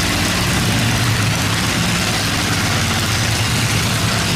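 Boat engines running steadily with a low hum, under a constant rushing hiss.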